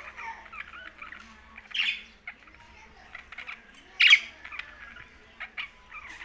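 Pet budgerigars chirping and twittering in a rapid run of short calls, with two louder, sharper squawks about two and four seconds in.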